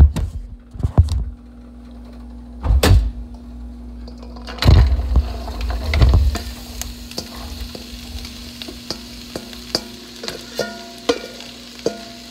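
A few loud handling thumps, then shredded chicken and chopped vegetables tipped from a metal bowl into a hot pan, landing with heavy thuds and starting a steady sizzle about five seconds in. Small clicks of the bowl and utensil against the pan run through the sizzle.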